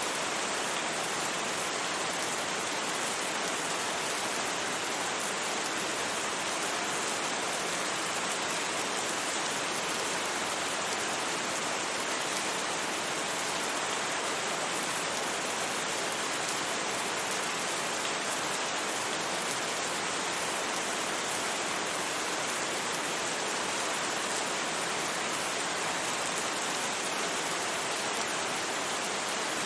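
Steady rain, an even hiss that holds unchanged throughout with no distinct drops or thunder standing out.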